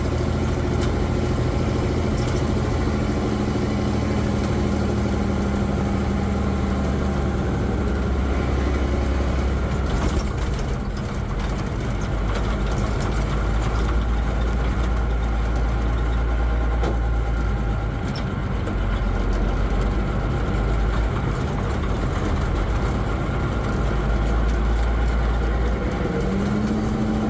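Engine of an M35A2 deuce-and-a-half military truck running steadily, its turbocharged multifuel inline-six, with its pitch rising near the end.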